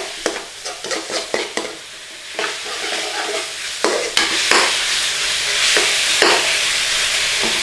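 Chicken pieces and onions frying in a pan, stirred with a utensil that scrapes and clicks against the pan in the first few seconds. The sizzling then settles into a steadier, louder hiss from about four seconds in.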